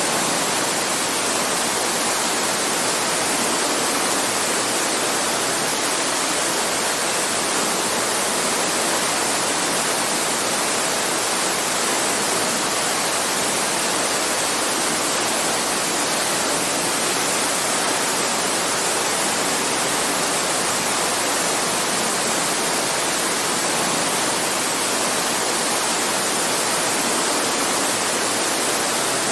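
Creek water babbling and rushing in a steady, unbroken stream.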